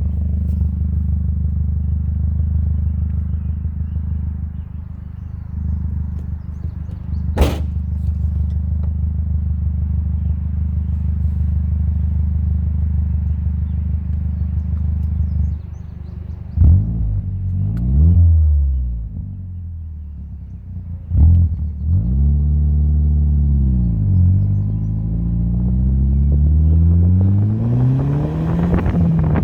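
Audi TT 225 Quattro's 1.8-litre turbocharged four-cylinder idling steadily, with one sharp click about seven seconds in. After about fifteen seconds the engine speed rises and falls several times, then climbs steadily near the end.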